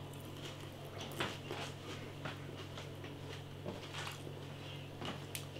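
Quiet mouth sounds of a person biting and chewing a hot, crisp roast potato: scattered soft clicks and squishy noises over a low steady hum.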